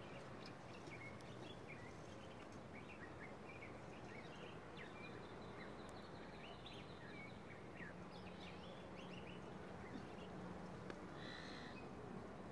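Faint, scattered bird chirps over a steady low background hiss.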